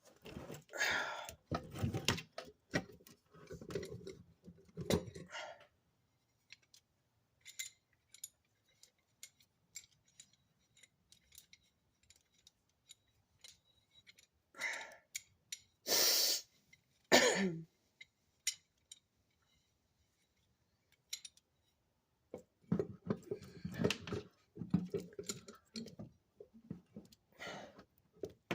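Scattered clicks, scrapes and rattles of metal tools and brake parts being handled while a C-clamp compresses the brake caliper pistons. A louder noisy burst comes about halfway through.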